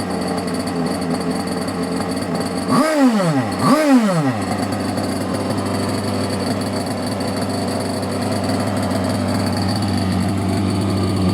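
Engine idling through its exhaust, given two quick throttle blips about three and four seconds in that rise and fall in pitch, then settling back to a steady idle.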